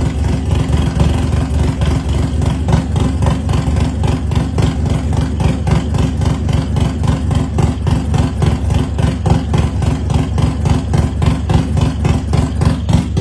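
Harley-Davidson Road Glide's V-twin, built up with a 132-cubic-inch S&S kit, idling with a loud, lumpy exhaust beat of about four to five pulses a second.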